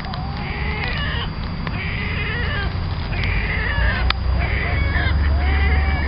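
Birds giving short, repeated calls, about one a second, over a steady low rumble that grows louder near the end.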